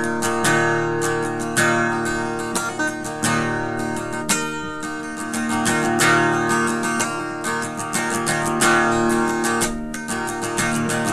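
Solo acoustic guitar strumming chords with ringing sustained notes, the instrumental introduction of a song before any singing.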